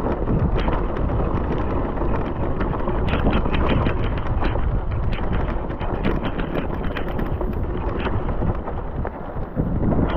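Wind buffeting the microphone, a loud deep rumble, with a run of short crunching clicks through the middle.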